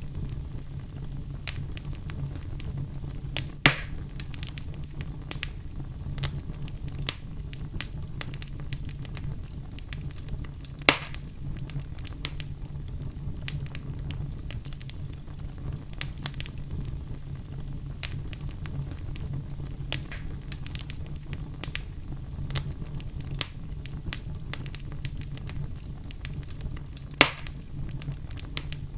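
Wood fire crackling in a fireplace: a steady low rumble of flames under frequent small crackles, with three louder pops at about a third, a third and most of the way through.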